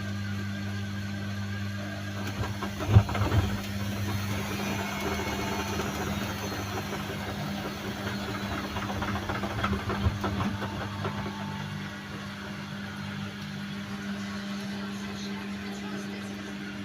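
Zanussi washing machine running a wash cycle: a steady motor hum with the drum turning, and a sharp thump about 3 seconds in and a few smaller knocks around 10 seconds in.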